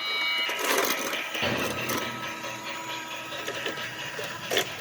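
A Lionel model train's electric motor whirring steadily as it runs on the track, with a couple of sharp knocks from objects being handled.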